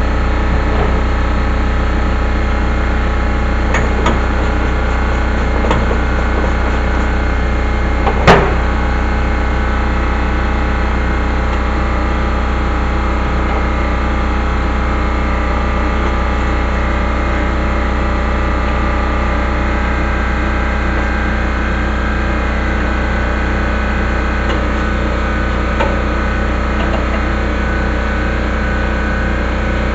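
A steady machine drone with a strong low hum and many steady tones, unchanging throughout, with one sharp knock about eight seconds in.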